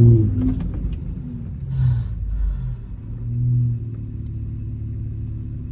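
Car engine running with a low rumble; it is loudest right at the start, settles lower within about half a second, and its revs swell briefly twice.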